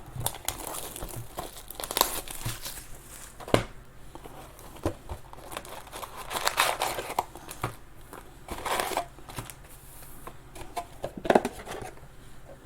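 Plastic wrapping on a box of trading-card packs being crinkled and torn open by hand, with irregular crackling rustles and sharp clicks.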